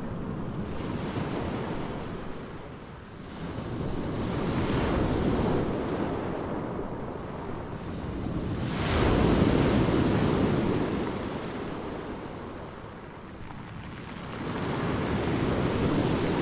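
Black Sea waves washing onto the shore, three surges about five to six seconds apart, the loudest about nine seconds in, with wind rumbling on the microphone.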